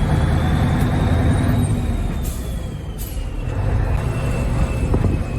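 Scania 143 truck's V8 diesel running on the move, with a thin high whistle over the engine note. Two short hisses of air sound about halfway through, as the engine eases off briefly and then pulls again.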